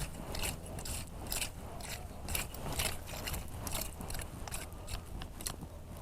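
A clam scraper dragged through sand and shells, giving an irregular run of gritty clicks and scrapes, several a second.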